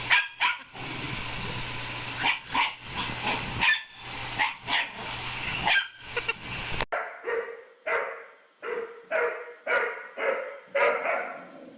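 A dog barking repeatedly. In the first part the barks come over a steady machine hum; after an abrupt cut a second dog barks in a quick, even run of about nine barks.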